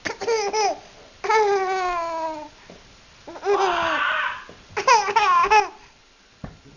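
A man's voiced imitations of bird calls, among them a long falling hoot and a raspy squawk, with a baby laughing between them in short bouncing bursts.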